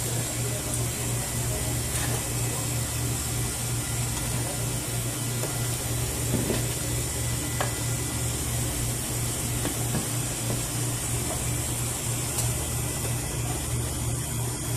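Newly replaced walk-in cooler refrigeration compressor running steadily with its fan, a low pulsing hum over a steady whoosh, while the cooler pulls down in temperature after the repair.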